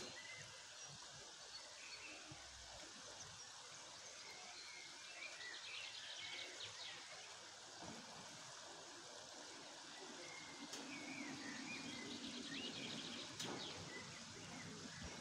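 Songbirds singing and chirping, with short buzzy trills about five seconds in and again near the end, over a faint steady outdoor hiss. A single sharp click comes near the end.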